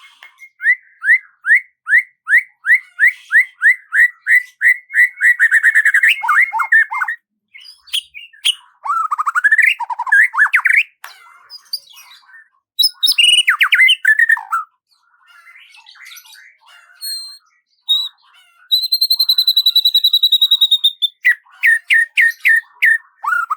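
Birdsong. A run of quick rising chirps, about three a second and speeding up over several seconds, is followed by varied chirps and phrases. Near the end a high trill is held for about two seconds, then comes another fast series of notes.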